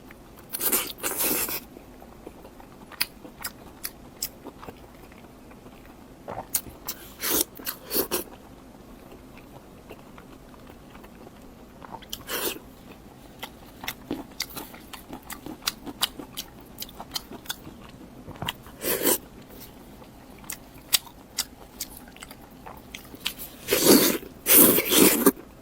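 A person eating close to the microphone: crunchy bites and chewing with scattered wet mouth clicks, the louder crunches coming in short bursts, with the longest run near the end.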